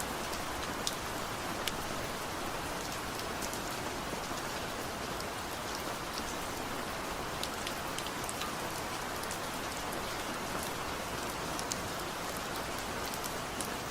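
Steady light rain falling, a soft even hiss with many scattered individual drops ticking on a surface; no thunder.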